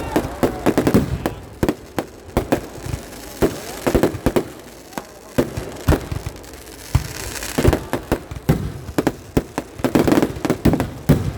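Festival fireworks going off: a dense, irregular run of sharp bangs, several a second, some echoing, with a stretch of hissing crackle about seven seconds in.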